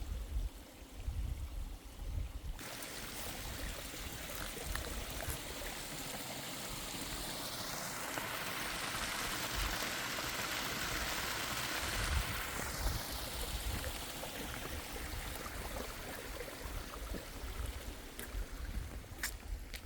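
Spring water running, a steady rush that starts abruptly a few seconds in, swells in the middle and eases again.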